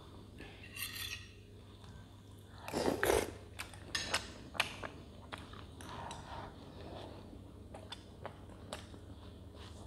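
Close eating sounds: chewing soft, milk-soaked dough dumplings (dudroti), with a noisy burst about three seconds in and a scatter of small sharp clicks from the mouth and the spoon.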